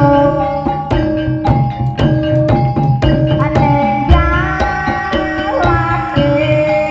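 Live ebeg (jaran kepang) accompaniment music: hand-drum strokes in a steady rhythm under ringing, held notes from metal keyed percussion, with a melodic line that bends in pitch about four seconds in.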